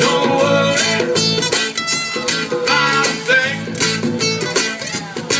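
Acoustic guitar strumming a steady song accompaniment in an instrumental passage between sung lines.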